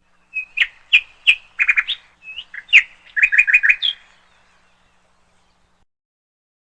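A small bird chirping: a string of short, sharp chirps followed by a quick run of about five notes, stopping about four seconds in.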